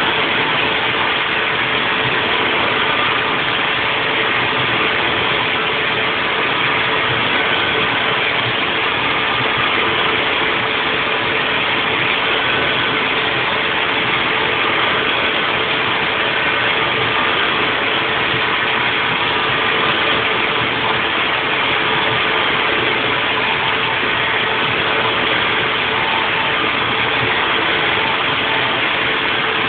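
Haas VF4 CNC vertical mill running, 3D-machining a nest block: a steady, unbroken mechanical noise with a constant hum tone running through it.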